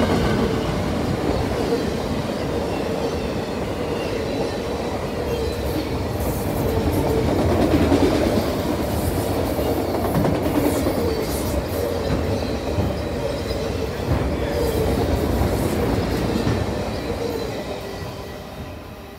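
Freight cars of a mixed-freight train rolling past close by: steady rumble and clatter of steel wheels on rail, with a thin wheel squeal over it. The sound dies away over the last few seconds as the end of the train passes.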